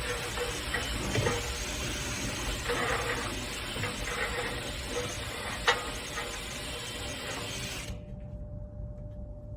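Power drill spinning a rotary brush rod inside a dryer vent duct, with a few sharp knocks of the brush against the duct. Near the end the hiss drops away, leaving a steady hum.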